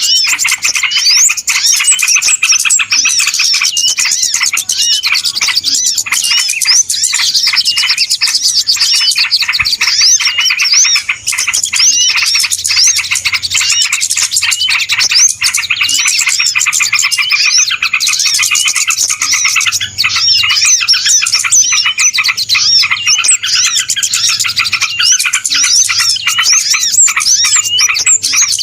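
Dense, unbroken chorus of many small birds chirping and twittering at once, high-pitched calls overlapping without pause: a noisy bird-lure recording meant to draw in small birds.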